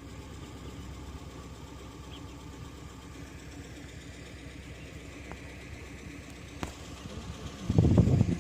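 Vehicle engine idling with a steady low rumble. A much louder, uneven rumble starts near the end.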